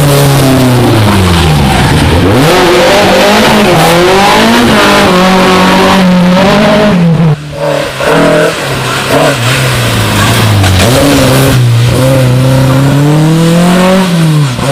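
Rally car engine revving hard, its pitch repeatedly falling and climbing through gear changes and corners. About halfway through the throttle cuts sharply for a moment, then the revving picks up again.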